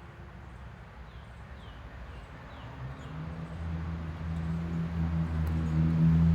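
A steady low mechanical hum sets in about three seconds in and grows louder, with a few faint high chirps before it.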